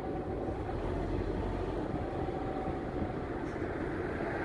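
Steady low rumble of a car driving along a street, engine and road noise without a break.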